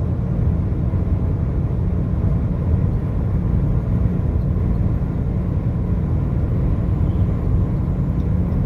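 Steady low rumble of a car driving on a highway: tyre and engine noise, constant throughout.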